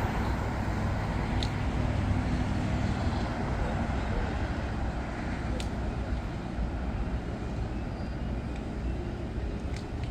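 Steady low rumble of jet airliner engines, easing slightly near the end, with a few faint clicks.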